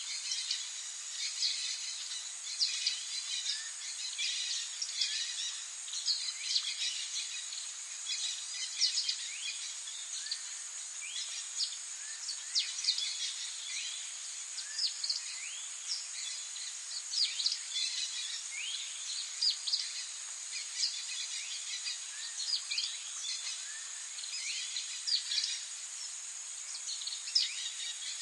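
Songbirds chirping and singing, many short falling notes following one another throughout, over a steady high-pitched hiss.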